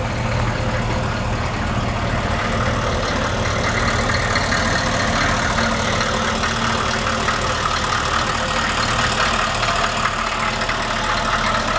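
1995 Chevrolet 1500's 6.5-litre turbo diesel V8 idling steadily and evenly.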